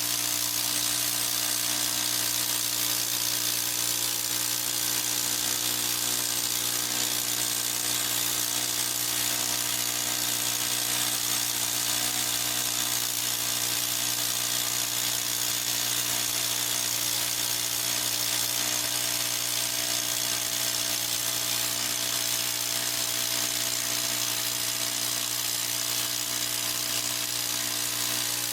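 Harbor Freight portable bandsaw mill running steadily, its engine holding one even pitch with a whining, hissing edge and no change in speed.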